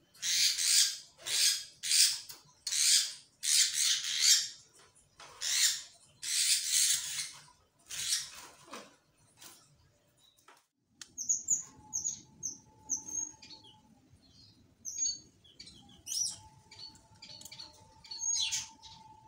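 Caged black-naped monarch calling: a run of about eight loud, harsh rasping notes, then, after a short lull, many short high chirps.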